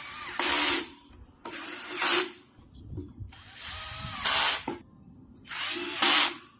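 Cordless electric screwdriver driving screws in four short runs, each about a second long, its motor whine getting louder near the end of each run as the screw seats.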